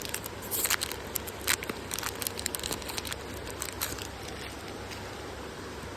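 Crinkling and crackling of a foil trading-card pack wrapper being handled, thinning out after about four seconds into a steady hiss.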